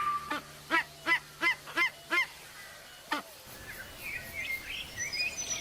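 A bird honking in short, repeated calls, about three a second for two seconds, with one more call a second later; faint high chirps follow.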